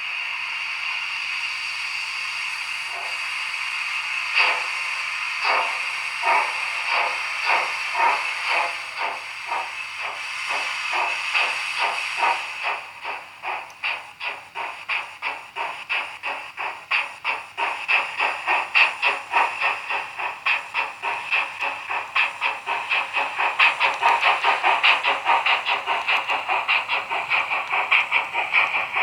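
Digital sound decoder of an H0 model class 44 three-cylinder steam locomotive, played through the model's small loudspeaker: a steady steam hiss, then exhaust chuffs begin a few seconds in and quicken steadily as the locomotive pulls away, in the uneven three-cylinder beat.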